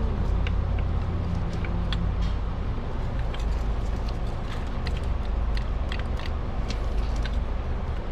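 Small metallic clicks and taps of exhaust pipe parts being pushed together and fitted, scattered irregularly, over a steady low rumble.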